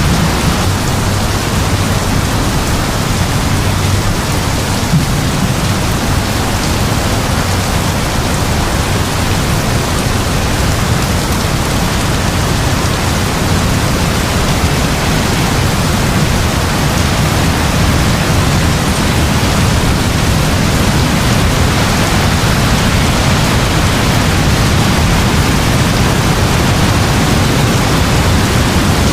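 Heavy rain falling steadily: a dense, even hiss with a low rumble beneath it that holds without a break.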